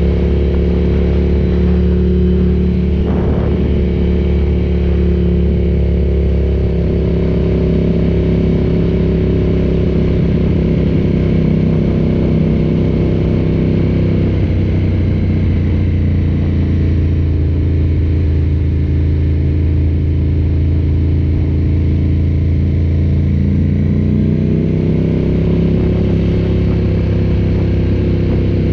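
Ducati café racer motorcycle engine running under way at low, steady road speed. The pitch shifts about halfway through and the revs rise again near the end.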